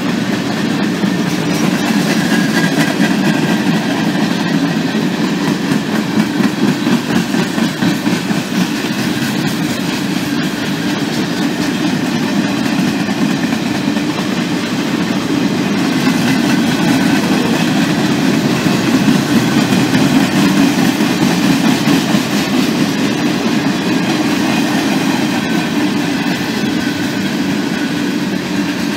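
CSX freight cars rolling past: steady noise of steel wheels running on the rails.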